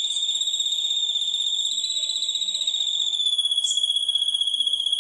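A continuous, high-pitched, rapidly pulsing trill from a song-material recording of the kind played to contest songbirds for them to copy. Its pitch drops slightly about three seconds in, with a brief higher chirp just after.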